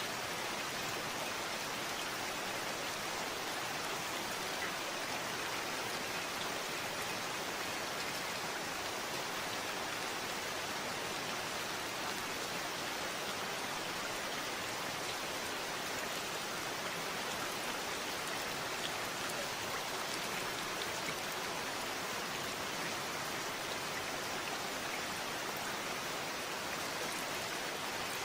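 Steady rainfall: an even wash of rain with fine drop patter, no change in strength.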